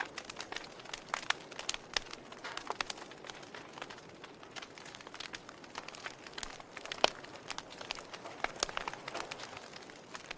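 Wood fire burning, crackling steadily with irregular sharp pops and snaps over a soft hiss; the loudest pop comes about seven seconds in.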